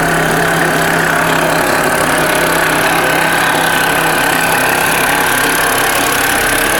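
A vehicle engine running steadily with a constant whine over it, unchanged throughout. This is the noise its owner calls horrible.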